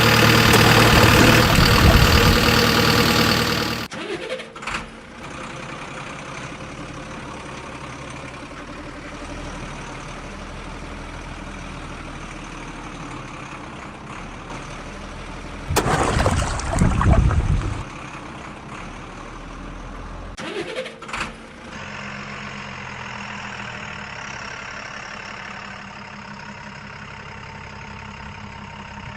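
Engines of heavy machinery, a JCB 3DX backhoe loader and tractors, running through several cut clips: loud for the first four seconds and again briefly about sixteen seconds in, steady and quieter in between.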